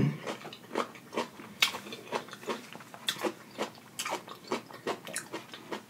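Close-up chewing of crisp cucumber slices: irregular wet crunches and mouth clicks, a few a second.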